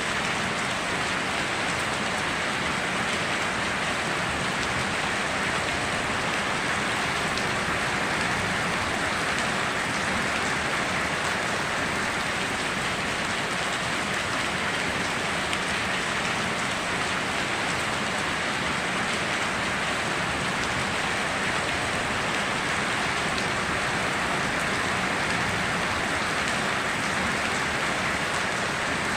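Steady rainstorm: an even, unbroken hiss of rain with fine drop ticks, and no thunder.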